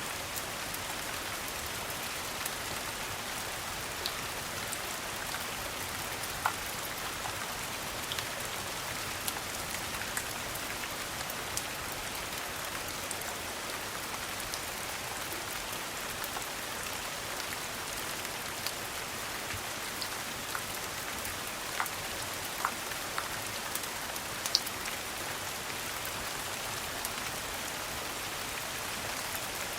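Steady rain falling, an even hiss, with scattered sharp clicks and pops over it.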